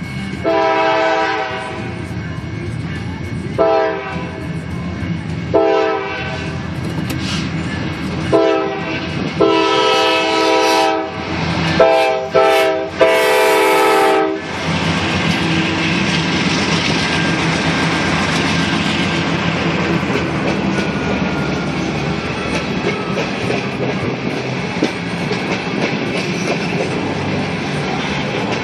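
Norfolk Southern diesel locomotive's air horn sounding a series of long and short blasts, the last one long, then the coal train rolling past with a steady rumble and wheel clatter.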